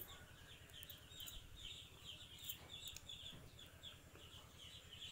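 Faint birds chirping: a quick, steady run of short, high calls over a low hum.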